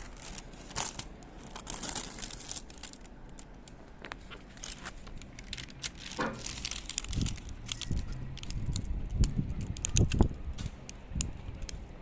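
Crinkling and rustling handled in the kitchen, with many sharp clicks and, in the second half, several dull knocks.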